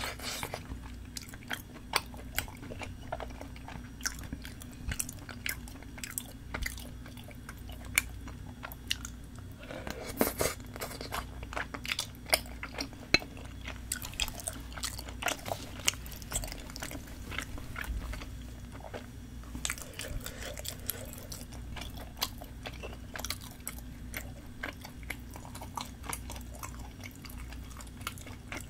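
A person chewing spicy tteokbokki, chewy Korean rice cakes in red chili sauce, with many small mouth clicks.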